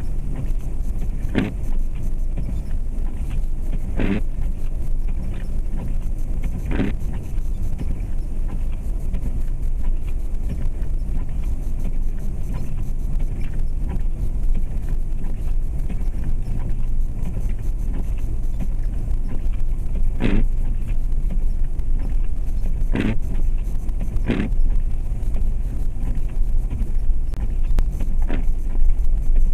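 2004 Jeep Grand Cherokee's 4.7-litre V8 running steadily while driving, heard from inside the cabin, with a low steady rumble. Short sharp clinks or rattles come now and then, about nine of them at irregular intervals.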